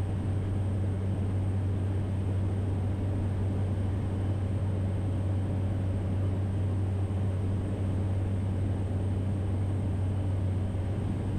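Cessna Caravan's single turboprop engine and propeller running steadily in cruise-to-approach power, a constant low drone with a strong low hum over steady airflow noise during the approach to landing.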